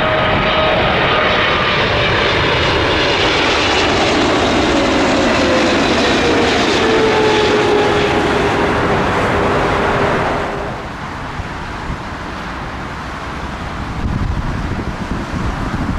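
Jet airliner's engines passing low overhead: a loud roar with a whine that falls in pitch as it goes by, cut down sharply about ten seconds in to a lower rumble.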